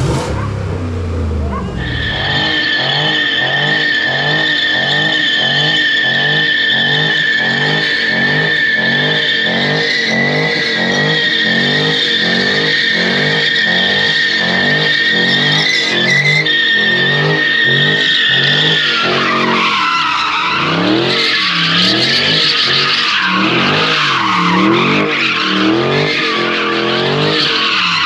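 A car doing a burnout or donuts: tyres squealing steadily over the engine, whose note rises and falls over and over. About two-thirds of the way through, the squeal breaks up and wavers.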